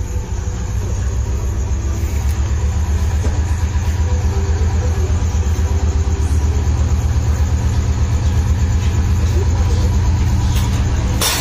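Diesel train engine rumbling as it pulls into the station, growing louder over the first couple of seconds and then holding steady. A sharp clack comes right at the end.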